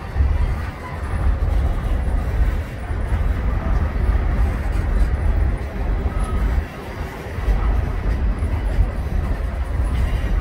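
Union Pacific freight train of tank cars and covered hoppers rolling past, a continuous rumble of wheels on rail that rises and falls in level, dipping briefly past the middle.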